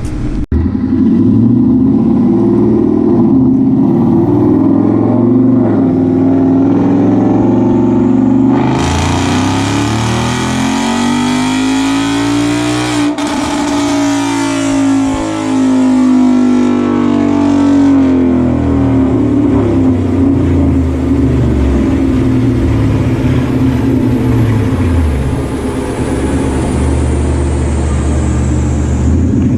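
2018 Ford Mustang GT's 5.0 Coyote V8 running on a chassis dyno. About eight seconds in it goes to a loud full-throttle pull, its pitch climbing steadily for about four seconds, then falls away as it lets off and coasts down. It runs on at lower revs while the dyno rollers whine down, falling in pitch near the end.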